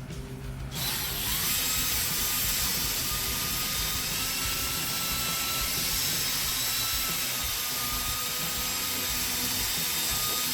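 Cordless drill spinning a P500 sanding disc over a plastic headlight lens, starting about a second in and running steadily with a thin high whine over a sanding hiss. This is the first, coarse sanding stage that knocks down the heavy scratches.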